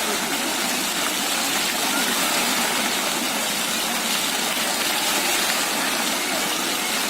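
Water fountain running, its falling water making a steady, even rush.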